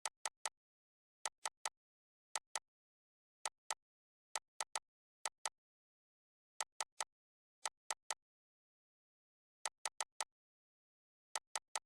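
Short sharp clicks in quick groups of two or three, the groups roughly a second apart, with dead silence between.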